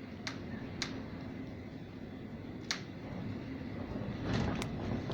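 Hurricane-force wind roaring steadily, swelling about four seconds in, with a few sharp ticks over it.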